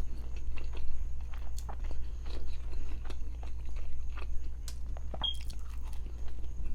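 Close-miked chewing and biting: a person eating with irregular wet clicks and smacks of the mouth, over a steady low hum. A brief high squeak about five seconds in.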